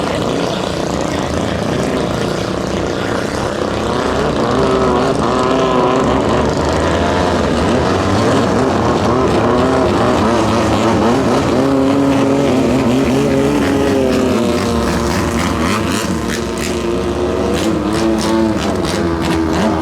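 Racing longtail boat engines running hard on the water, their pitch rising and falling as they rev. Sharp cracks come quickly one after another near the end.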